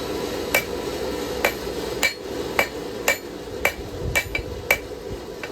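Crowned forging hammer striking a steel knife blade on an anvil: about nine ringing blows, roughly two a second, hitting just behind the tip. A steady hum runs underneath.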